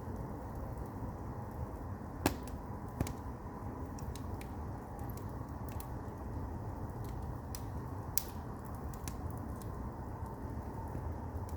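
Firewood burning in an agungi, a traditional Korean firebox: a steady low rush of flame with scattered crackles and a few sharp pops, the loudest about two seconds in.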